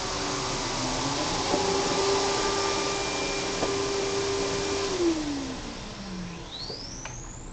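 Riccar 100 bagged vacuum cleaner's 10-amp motor running steadily, then switched off about five seconds in, its hum falling in pitch and fading as the motor spins down.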